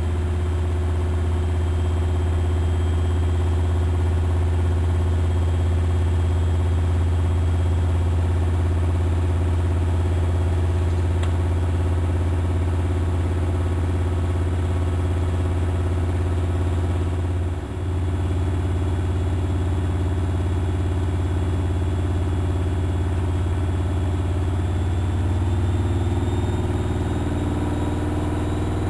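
Miele Novotronic Meteor 2200 washing machine spinning, a loud steady motor-and-drum hum with a short dip about two-thirds of the way through and some tones starting to shift in pitch near the end.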